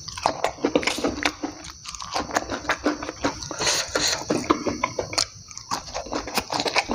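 Close-up mouth sounds of a man eating by hand: wet chewing and lip smacking, with many short irregular clicks.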